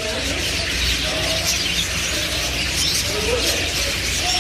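Many caged birds chirping and twittering at once in a dense, steady chorus of high calls, with a few brief lower tones mixed in.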